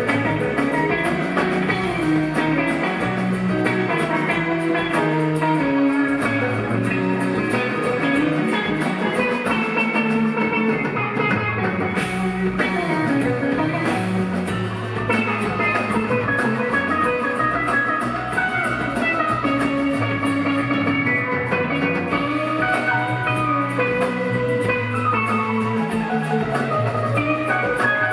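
A live rock band playing an instrumental jam: lead guitar running melodic lines over bass, keyboards and drums.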